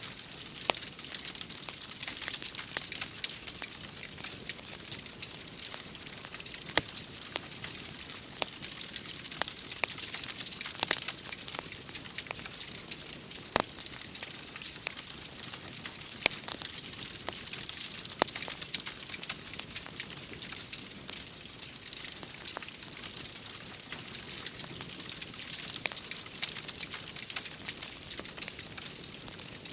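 Wood fire crackling, with frequent sharp pops and snaps at irregular intervals, a few much louder than the rest, over a steady rain hiss.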